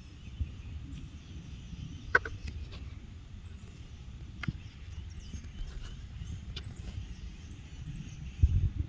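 Handheld walking sounds on a woodland trail: a steady low rumble of movement and wind on the microphone, a few sharp clicks, and a louder thump near the end, with faint bird chirps in the background.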